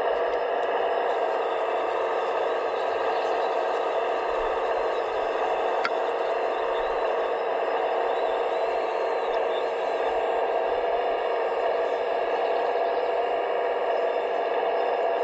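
Radio-controlled scale construction machine running steadily: a constant motor-and-pump whine made of several held tones, with light rattling and one brief click about six seconds in.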